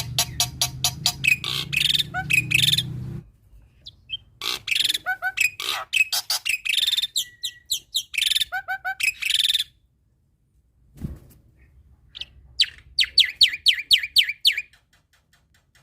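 Male black-winged starling (jalak putih) singing in bouts of rapid, sharp repeated notes and whistles, with a pause of a couple of seconds before the last bout.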